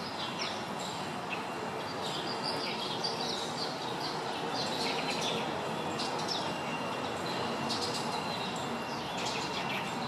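Small birds chirping and trilling in short, scattered calls over a steady background hiss of outdoor noise.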